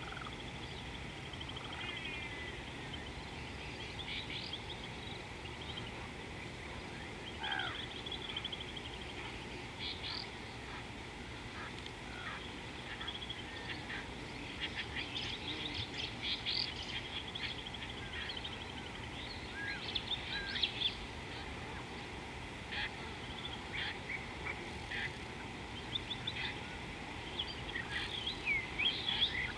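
Wild birds calling in the bush: a mix of short chirps, trills and whistled notes that slide up and down, over a faint steady hiss. The calls grow busier in the second half and again near the end.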